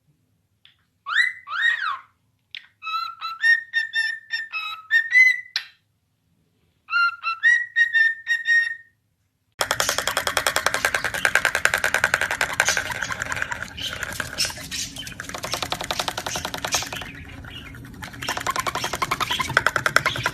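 A parrot whistling: several short phrases of gliding and held whistled notes, with gaps of silence between them. About ten seconds in, this gives way to busy music with a fast, steady beat.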